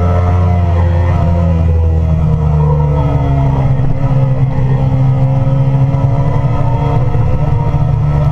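Sport motorcycle engine running at speed, heard from onboard the bike, its pitch easing down about two seconds in and then holding steady.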